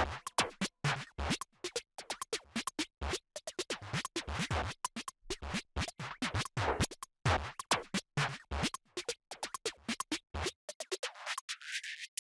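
A subwoofer crackling and popping in rapid, irregular bursts, the music through it cutting in and out with brief low thuds: the noise of a faulty subwoofer. The bursts stop for about a second near the end.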